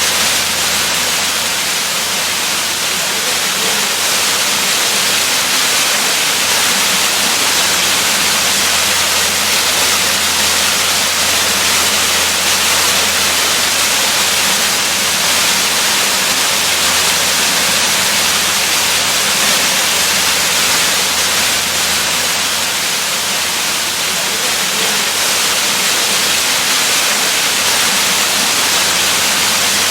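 Waterfall: water falling and splashing in a steady, even rush, strongest in the hiss range, with no change.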